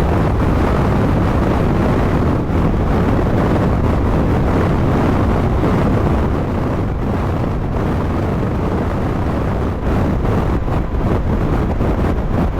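Strong wind buffeting the microphone, a loud, steady rumble heaviest in the low end, from winds blowing at around 77 km/h with gusts to 108 km/h.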